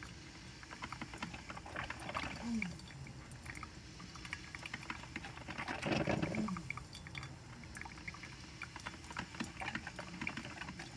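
Coffee maker brewing, gurgling and sputtering with water, with two short falling moan-like tones, the louder one about six seconds in: the noise the owner likens to sex noises.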